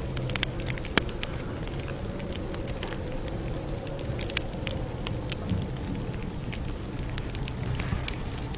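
Campfire crackling: frequent small sharp pops with a louder snap about a second in, over a steady low noise.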